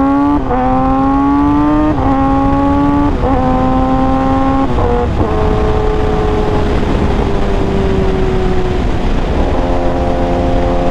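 Kawasaki ZX-10R inline-four sportbike engine pulling hard and upshifting through several gears, its pitch climbing and then dropping at each shift over the first five seconds. It then settles into a steady cruise, with wind rushing throughout.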